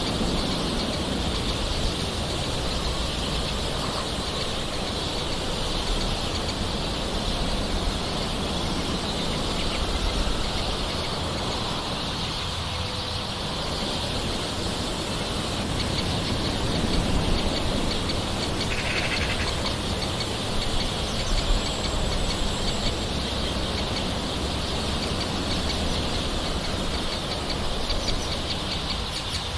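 Steady hiss of soft rainfall, with a brief faint bird call or two in the background.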